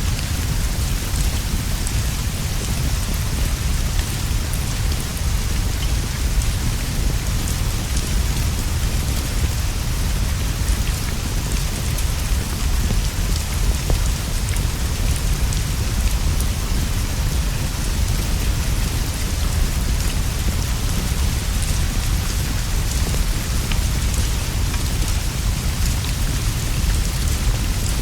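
Steady rain falling on leaves and a straw roof, an even hiss over a constant low rumble, with scattered faint pops and drips.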